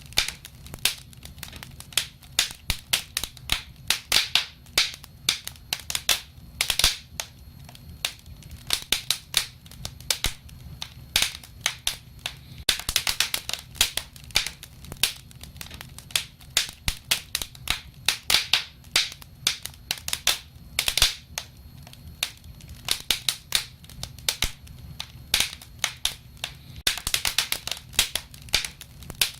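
Wood fire crackling, with frequent sharp, irregular pops and snaps that come in denser flurries a couple of times.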